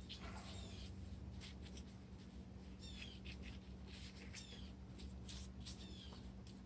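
Hands pressing and rubbing wet cement over a patch, faint scraping strokes with a few short high squeaks, over a steady low hum.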